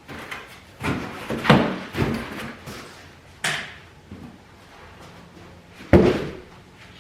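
Unboxing a welder from its cardboard box and packing: a series of knocks, thumps and scrapes, with the loudest thump about six seconds in.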